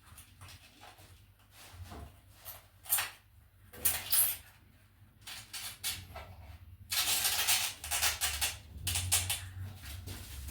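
Tiling work: a run of short scrapes and clicks as tiles, adhesive and tile clips are handled, with a louder, longer scrape about seven seconds in.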